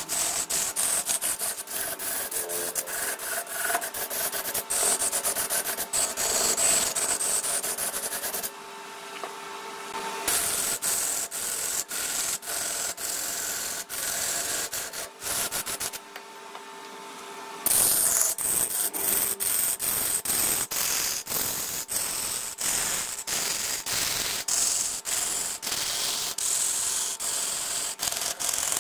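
A tool or sandpaper rubbing against wood spinning on a lathe: a continuous scratchy hiss over the lathe's steady hum. The scraping eases off twice, briefly, about a third of the way in and again past the middle.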